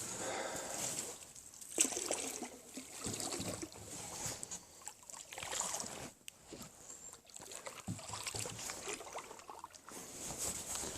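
A small boat moving on the water, with irregular swishes and sloshes of water against it every second or two.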